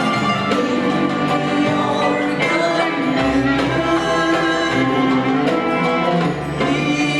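Ensemble music with a solo singing voice over sustained instrumental lines.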